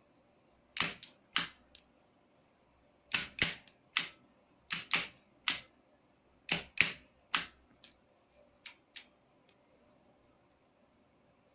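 A series of sharp mechanical clicks, often in quick pairs, coming irregularly for about eight seconds and then stopping, with quiet between them.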